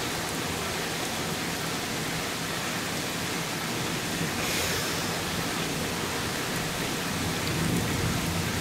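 Heavy thunderstorm rain falling in a steady downpour, a dense even hiss that swells briefly about halfway through.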